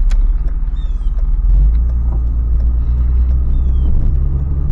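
Toyota 4Runner's 4.0-litre V6 running with low road rumble as the SUV is driven, growing a little stronger about one and a half seconds in.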